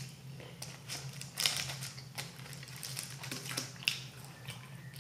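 Close-up chewing and crunching of crispy fast-food French fries, with the crinkle of the paper wrapper as fries are picked up. The crunching comes in irregular bursts, busiest about one and a half seconds in, with a sharp crunch near the four-second mark.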